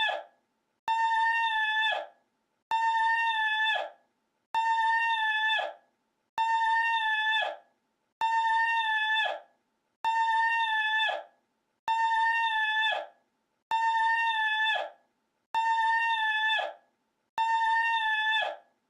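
A looped sound clip of a single call: a high, steady tone about a second long that drops sharply in pitch at its end, repeated identically about every two seconds, ten times over.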